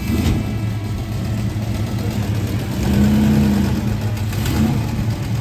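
Chevrolet Chevelle SS's V8 engine rumbling as the car rolls slowly past, with a short rev about three seconds in.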